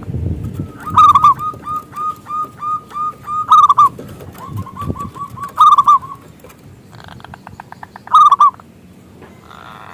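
Zebra dove (perkutut) cooing in its rapid staccato song: runs of short, quick coos at a steady pitch, broken by louder accented notes four times.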